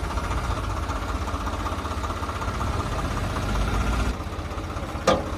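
Tractor engine running steadily at low revs, with a sharp knock or clank near the end.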